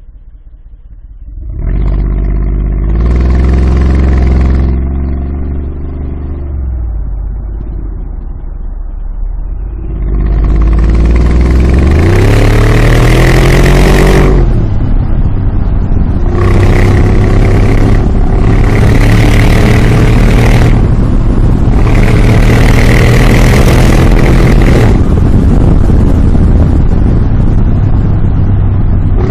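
Mercedes G63 Brabus twin-turbo V8 exhaust. The engine comes up loudly about a second and a half in, drops back to a lower idle, then is revved: one long rising rev, followed by three held revs with short drops between them.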